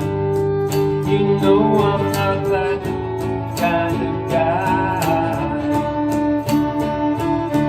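A band playing an instrumental passage of a slow country song: strummed acoustic guitar with a lead melody that slides between notes.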